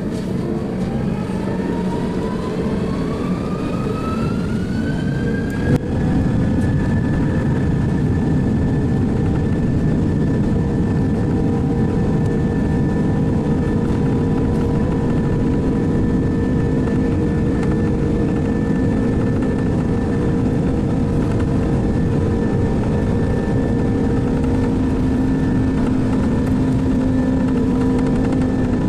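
Airbus A330 turbofan engines spooling up for takeoff: a whine rises in pitch over the first six seconds, then the engines run steadily at takeoff power.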